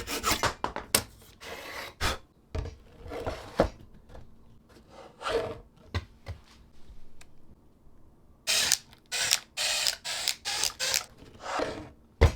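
Hand work on wood: scattered clicks and knocks with short scraping strokes, then a run of quick rasping strokes near the end.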